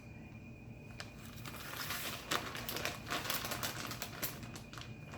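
Shredded mozzarella being handled and sprinkled by hand, an irregular crinkling, crackling patter that starts about a second in and is busiest in the middle.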